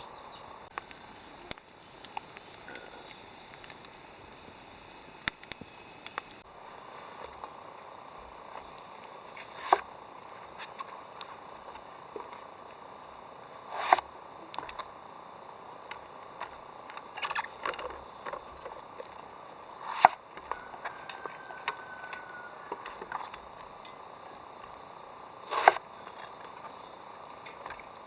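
Summer insects droning steadily and high-pitched, broken by four sharp knocks several seconds apart, the loudest sounds, and a few lighter clicks.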